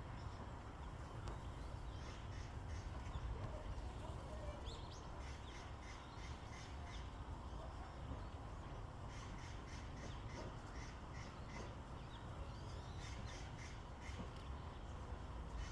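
Bird giving bouts of rapid, harsh repeated calls, about four notes a second, over a steady low background rumble.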